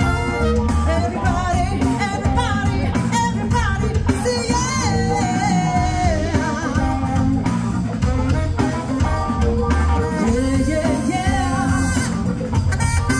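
A band playing a song with a singer, a sung melody over a steady bass line and beat.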